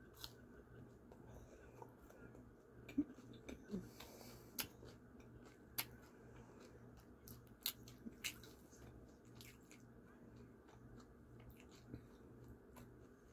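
Faint close-up chewing of food, with sharp mouth clicks and smacks every second or two.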